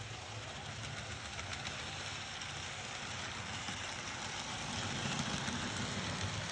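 Model electric train running on its track: a steady motor hum with wheel rumble and hiss, getting somewhat louder near the end as it comes closer.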